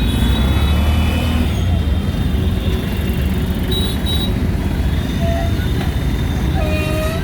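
Auto-rickshaw's small engine running steadily with a low rumble during the ride through street traffic, with two short high tones about five seconds in and near the end.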